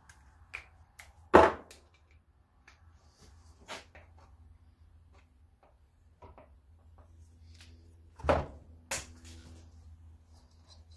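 Chainsaw parts and tools being handled during a teardown: a few sharp knocks and clunks, the loudest about a second and a half in and a pair near the end, with light clicks and rattles between.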